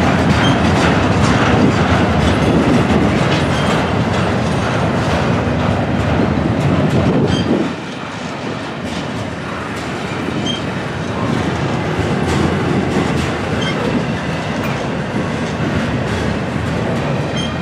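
Double-stack intermodal container well cars rolling past, a steady rumble with wheel clatter on the rails. The noise drops for a moment about halfway through and then builds again.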